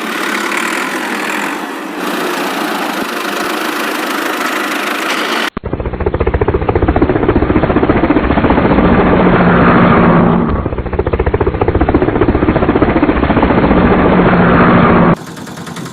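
Tractor engine running. About five seconds in, the sound cuts abruptly to a louder, deeper engine with a fast, even chug. Near the end it cuts back to a lighter engine sound.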